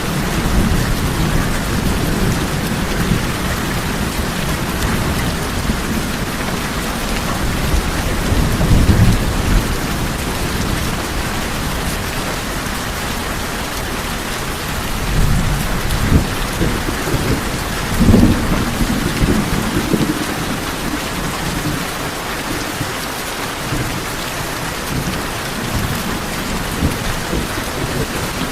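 Steady rain falling on a tin roof, with low rolls of thunder rumbling several times; the loudest come about a third of the way in and again past the middle.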